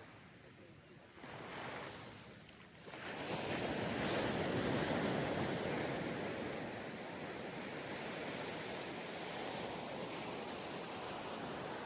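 Sea waves on a sandy beach: a quiet lull, then a wave breaks about three seconds in and settles into a steady wash of surf. Some wind noise on the microphone.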